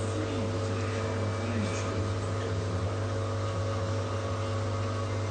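Bush front-loading washing machine running mid-cycle, a steady mechanical hum with a low drone and a few steady higher tones. Faint voices underneath.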